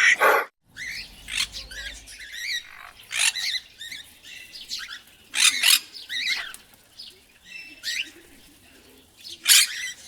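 Birds chirping and squawking: a string of short, high calls at irregular intervals, many bending up and down in pitch, with a louder call near the end.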